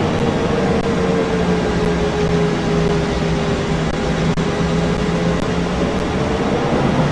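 Airbus A380 jet engines running, heard as a steady, even noise with a low hum under it. A clear tone in the noise slowly drops in pitch, then rises slightly near the end.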